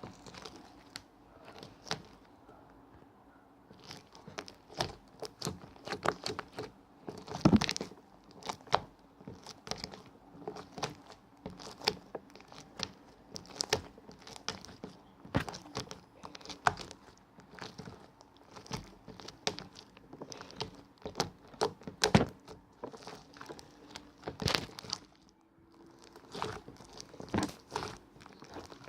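Irregular crinkling and crackling handling sounds, a dense run of sharp clicks and crunches with a short lull about two seconds in and another near the end.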